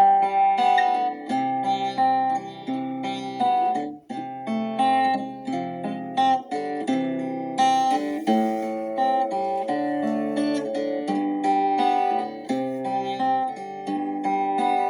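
Instrumental worship music played on acoustic guitar: plucked notes and chords ringing, with a brief break about four seconds in.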